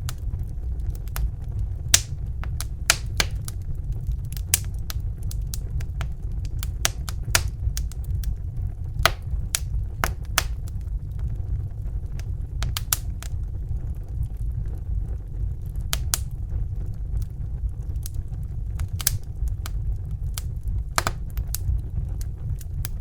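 Fire crackling: irregular sharp pops and snaps, a few a second, over a steady low rumble.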